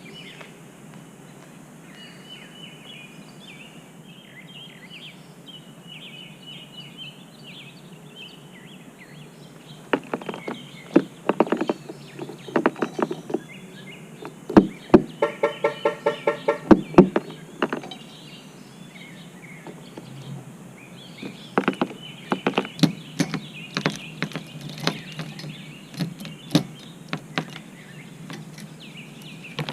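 A bird's faint chirps, then the bird tapping at the car in runs of sharp knocks, several a second, starting about a third of the way in and again later. Midway through the tapping the car alarm gives a brief electronic chirp, set off by the bird.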